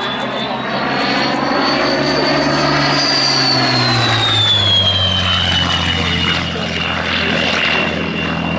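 Rolls-Royce Merlin-engined WWII fighter flying past, its engine note and a high whistle both dropping in pitch between about three and five seconds in as it goes by.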